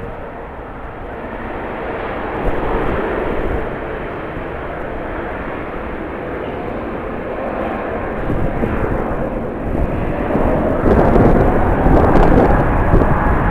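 Jet airliner's engines running with a steady rushing roar, growing louder over the last few seconds as the plane comes nearer.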